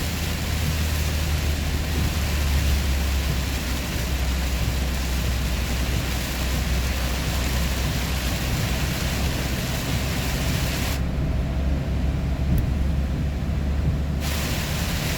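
Steady road noise inside a vehicle cruising on an expressway: a low engine and drivetrain drone under an even rush of tyres and wind. The higher part of the hiss drops away for about three seconds near the end.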